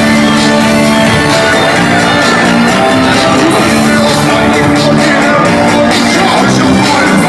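A live pop band playing a dance song with a steady drum beat and sustained bass notes, amplified through a compact AudioFocus concert PA system.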